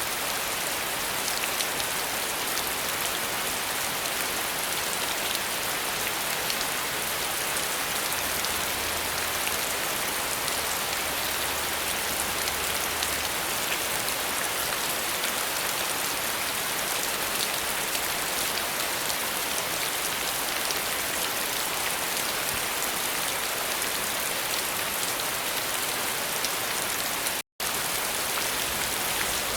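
Steady rain falling, a dense even hiss with fine patter of individual drops on surfaces. The sound cuts out completely for an instant near the end.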